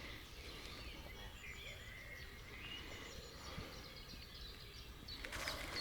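Faint birdsong: several birds chirping and warbling over a low, steady outdoor background noise. A louder rustling noise comes in near the end.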